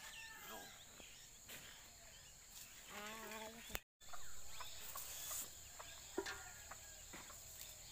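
Faint outdoor ambience with scattered bird chirps and a short fowl call about three seconds in, briefly cut off just after.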